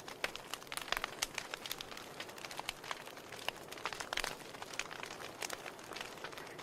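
Wood fire burning in a fireplace, the logs crackling with frequent sharp, irregular pops over a soft steady hiss.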